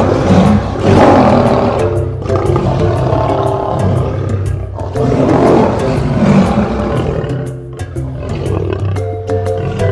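Lion roaring in loud, rough bursts, one group near the start and another about five seconds in, over background music with a steady beat.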